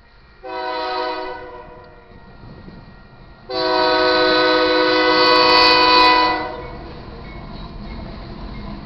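Air horn of a Union Pacific AC44CW diesel locomotive: a short blast about half a second in, then a louder long blast of about three seconds, over the low rumble of the moving train.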